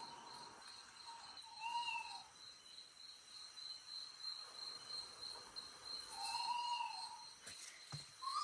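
Night insects trilling steadily on one high note, with two short rising-and-falling whistled calls from another animal, one about two seconds in and one near six and a half seconds, and a light knock near the end.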